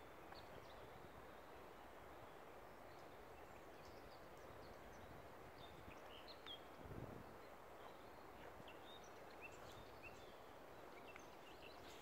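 Faint woodland ambience: a steady low hiss with scattered short, high chirps of small birds. A soft low thump about seven seconds in.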